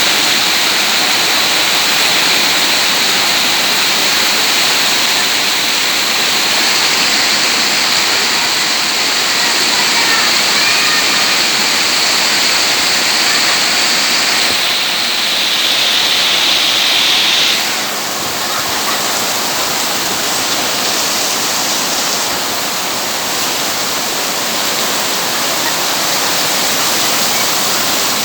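Heavy rain pouring down in a steady hiss; about eighteen seconds in it turns a little quieter and less sharp.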